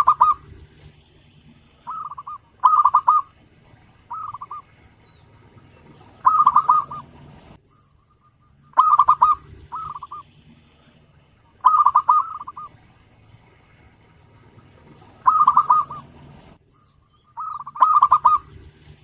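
Zebra dove (perkutut) cooing: short phrases of rapid, rolling coos repeated every two to three seconds.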